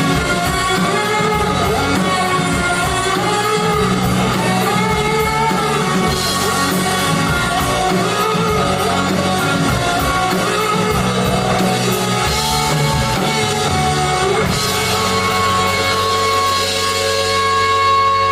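Live rock band with guitar and singing playing the closing section of a song; from about fifteen seconds in, the band settles onto long held notes, swelling slightly into a final chord near the end.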